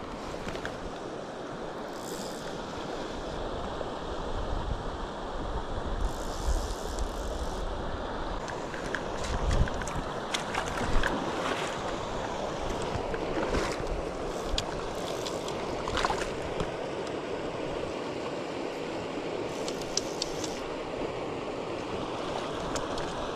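Wind buffeting the microphone over the steady rush of a flowing stream, with low rumbling gusts in the first half. Scattered light clicks and knocks throughout.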